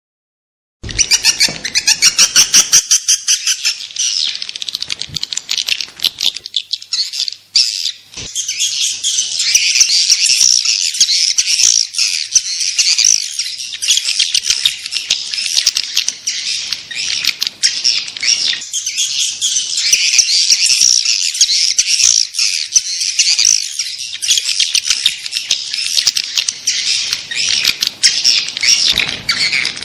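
Swiftlet calling (lure) sound: many swiftlets twittering and chirping in a dense, continuous, high-pitched chatter. It starts just under a second in with a fast, even run of chirps, then thickens into constant chatter.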